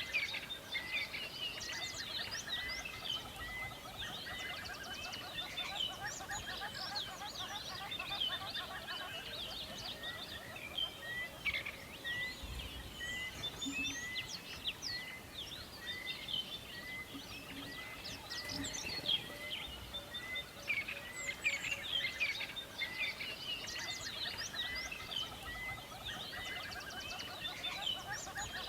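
Many songbirds singing and calling together in a dense morning chorus, with one bird repeating the same short chirp over and over.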